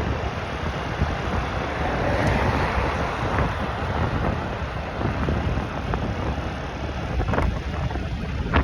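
Strong wind in a snowstorm buffeting the microphone, a steady rushing roar with heavy low rumble. A sharp knock comes near the end.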